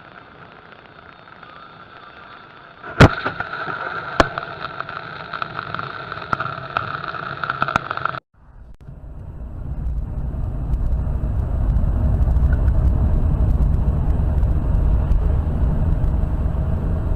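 Dashcam audio from inside a car: a steady cabin hum, then a sudden loud bang about three seconds in and a second smaller bang about a second later, followed by scattered clicks and rattles, the sound of a car collision. After a cut, a car's engine and road rumble build up and run on steadily.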